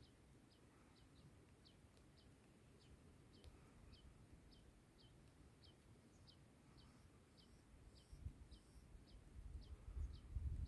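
Faint bird call: a short, high, downward-sliding chirp repeated evenly about twice a second. A low rumble rises over the last few seconds.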